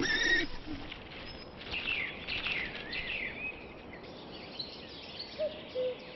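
Wild birds singing: quick sweeping chirps in the first half, and a low two-note falling call near the end.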